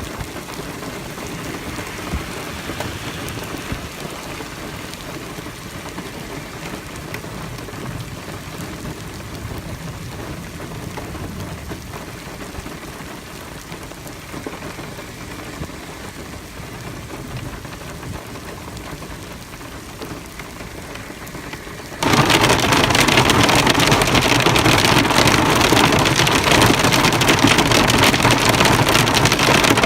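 Heavy rain falling, steady at first; about three-quarters of the way through it abruptly becomes much louder and denser.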